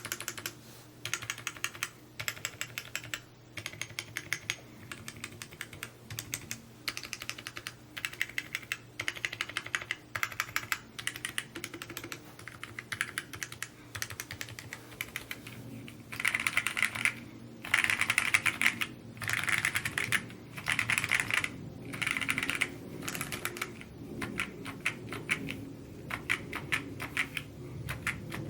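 Fast typing on a Mode Encore 2 custom mechanical keyboard: runs of rapid keystroke clacks in bursts with short pauses between words, louder for a stretch past the middle.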